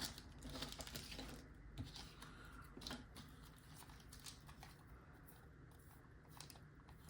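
Faint, scattered light clicks and rustles of a lock pick set and its case being handled.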